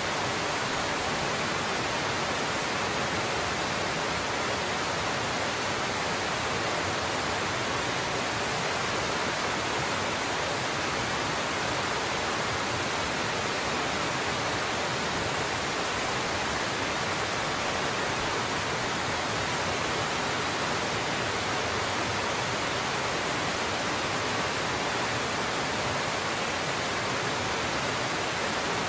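Waterfall pouring steadily: an even, unbroken rushing hiss of falling water.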